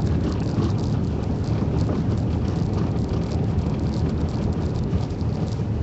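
Car driving slowly on a snowy, icy road, heard from inside the cabin: a steady low road and tyre rumble with faint irregular ticks over it.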